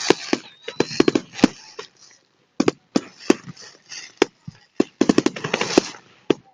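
Fireworks display going off: a run of sharp bangs and crackles, some in quick clusters, with a brief pause about two seconds in and a denser flurry about five seconds in. A thin whistle sounds in the first second.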